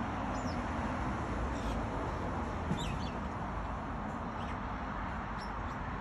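A small bird giving about five short, high chirps, each dropping in pitch, spread across a few seconds over a steady background rumble and hiss.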